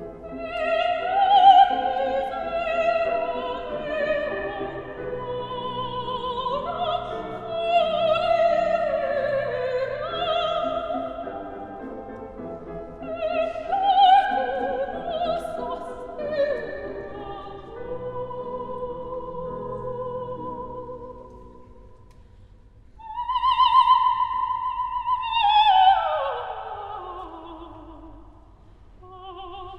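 Operatic singing, with several overlapping vocal lines for most of the stretch. Near the end a single voice holds a high note and then sings a long phrase that falls steadily in pitch.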